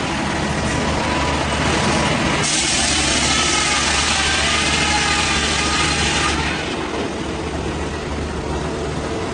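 A heavy engine-driven saw runs steadily. A loud hissing cutting noise, with wavering whine, comes in about two and a half seconds in and stops a little after six seconds.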